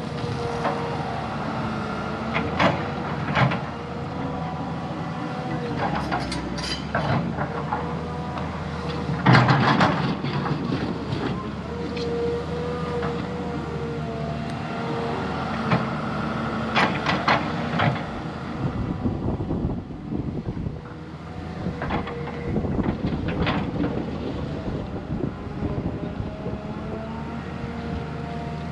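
Heavy diesel earthmoving machinery running steadily while working dirt, with repeated sharp clanks and knocks; the loudest comes about a third of the way through.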